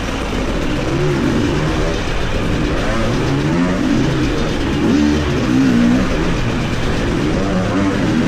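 Motorcycle engine running under way, its pitch rising and falling repeatedly as the throttle changes, over a steady rush of wind and road noise.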